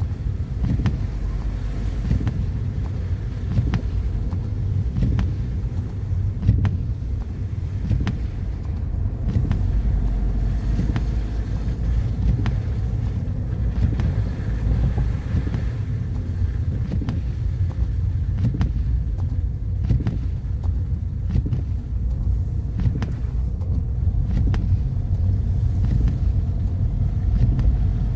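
Car driving: a steady low rumble of engine and road noise, with scattered light knocks every second or two.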